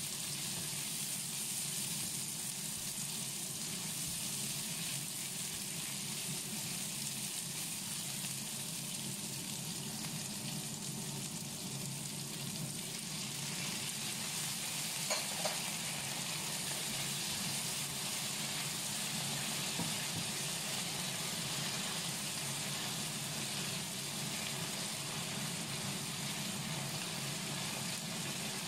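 Sliced onions sizzling steadily in oil in a frying pan as they are stirred with a silicone spatula. About halfway through, chopped tomatoes go into the pan with a couple of light clicks, and the sizzling grows a little stronger.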